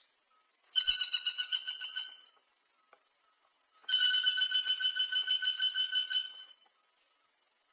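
A woodpecker's rapid rattling trill on one steady high pitch, sounding twice, each run about two seconds long, with a faint click near the start of the first.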